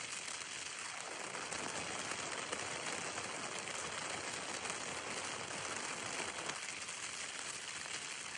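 Steady rain falling on a tent's flysheet and the grass around it.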